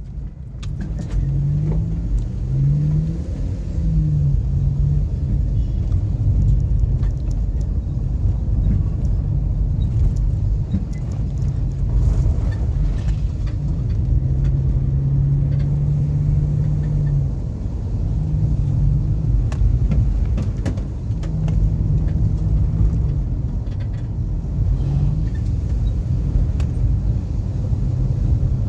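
A car being driven: steady engine and road rumble, with the engine note rising and falling several times as it changes speed, and scattered short knocks.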